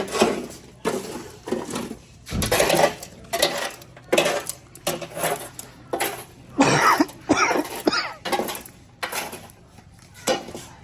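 Plates and cutlery clinking and clattering in irregular bursts, with voices talking in the background.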